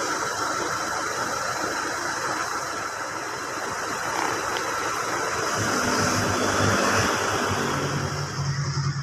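Motorbike engine running under a steady rush of wind and road noise; near the end a low, even engine hum comes to the fore.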